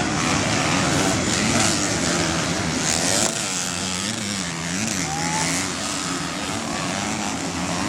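Motocross bike engines revving up and down as they run on the track, the pitch wavering between throttle changes, over a wide hiss.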